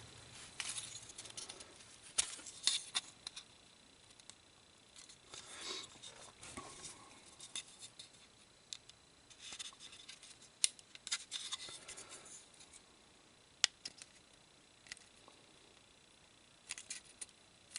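Small model-kit parts being handled and pushed into place: faint, irregular clicks, taps and short scrapes as the engine's hydraulic adjuster pieces are fitted into their holes, with one sharper click past the middle.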